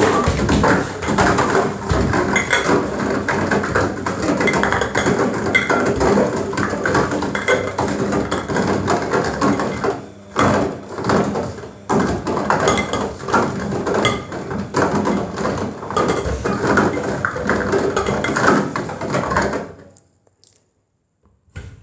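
Washing machine drum turning with a carton of Pringles tumbling inside, knocking and clattering against the drum in a dense, continuous rattle that cuts off abruptly near the end.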